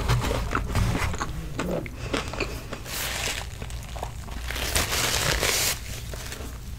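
Close-miked chewing and crunching of food, with sharp wet mouth clicks, over the first couple of seconds. Then a paper napkin rustles against the mouth in two spells, about three seconds in and again around five seconds.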